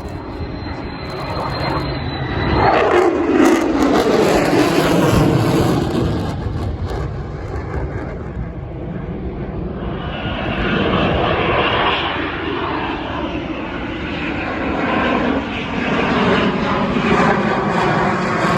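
F-35 Lightning II jet, its F135 afterburning turbofan, making a high-speed pass. A thin high whine is heard up to about three seconds in, then the jet noise peaks and the pitch falls sharply as it goes by. The noise rises again from about ten seconds in and stays loud to near the end.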